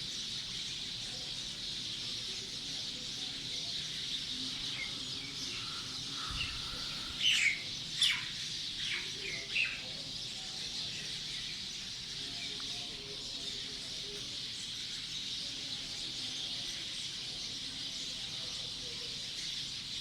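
Birds chirping, with a brief cluster of loud, sharp chirps about a third of the way in, over a steady high-pitched hiss of background calls.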